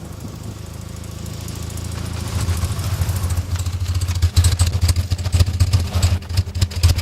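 Motorcycle engine running, growing louder from about two seconds in, with a rapid clattering over it in the second half.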